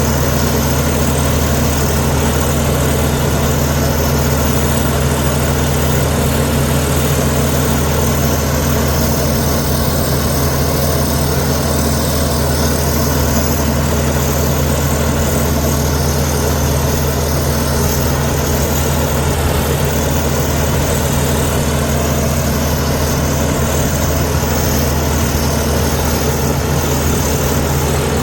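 Heavy diesel engine of earthmoving machinery running steadily: a low, even drone that holds one speed throughout.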